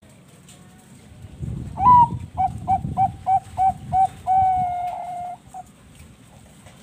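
Zebra dove (Thai-bred perkutut bangkok) singing its cooing song: a rising opening note, a quick run of about seven short notes, then one long drawn-out note.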